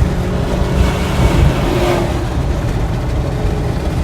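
Road and engine rumble inside a moving car's cabin as it overtakes another vehicle, with a rush of noise that swells from about a second in and fades after about two seconds.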